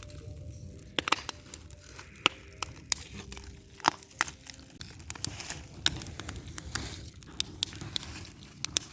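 Wood bonfire crackling, with irregular sharp pops and snaps over a low steady rush.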